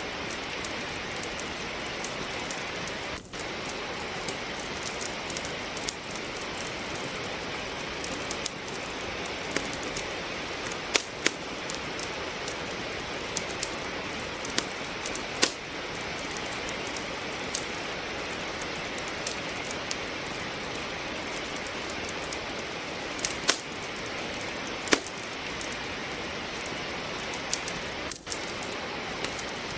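Steady rain hiss with burning firewood crackling and popping in a fireplace: sharp pops at irregular intervals over the rain, a few of them noticeably louder.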